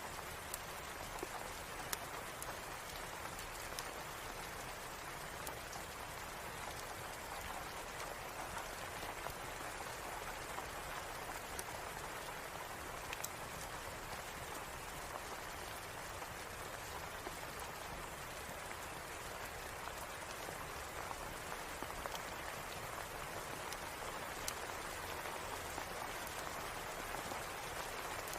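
Steady rain falling, an even hiss with scattered sharp ticks of individual drops or crackles.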